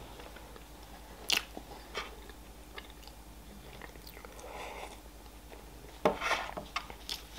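Close-miked eating sounds: chewing chocolate cake, with a few sharp mouth clicks. About four seconds in there is a soft sip of tea from a mug, and just after six seconds a louder sudden sound.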